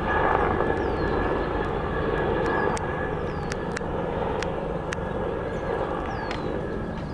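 Helicopter in flight, a steady rush of turbine and rotor noise that slowly fades, with scattered sharp clicks over it.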